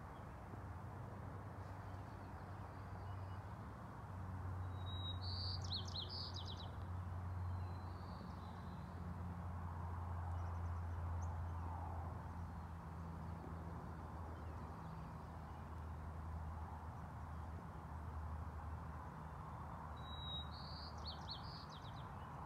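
A small songbird sings two short phrases, each a clear whistled note followed by a quick run of notes, about five seconds in and again near the end. Under it runs a low steady rumble that swells for several seconds around the middle.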